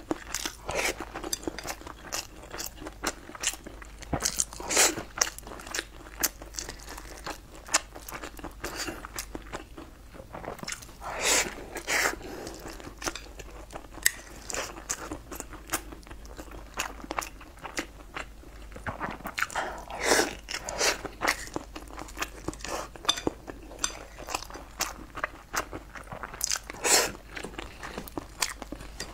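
Close-miked chewing and wet mouth sounds of a person eating, with steady small smacks and clicks and a louder cluster of bites every several seconds.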